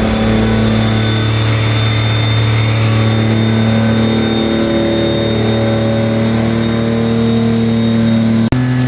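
Turbocharged EG33 flat-six engine running at a steady engine speed, with a thin high whine above it. About eight and a half seconds in, the sound cuts suddenly to the engine holding a slightly higher steady pitch.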